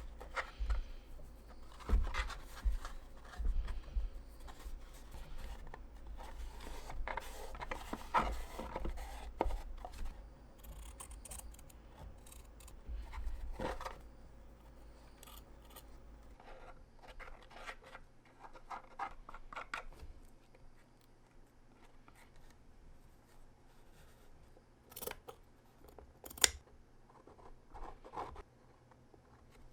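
Scissors snipping by hand in short irregular cuts, with rustling and scraping of the material being handled; the cutting is busy at first, thins out after about halfway, and two sharp clicks come near the end.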